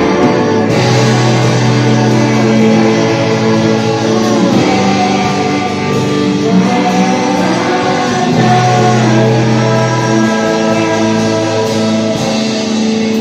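Live worship band music: an instrumental passage of held guitar and keyboard-like chords over a steady bass line, without words.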